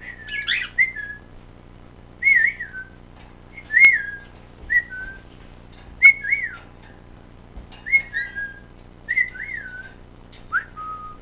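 Cockatiel whistling a string of short phrases, about one every second or so, each a quick wavering rise and fall in pitch.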